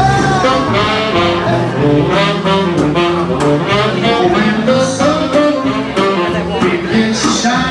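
Live New Orleans-style jazz band playing an instrumental passage, horns carrying the melody over a steady beat.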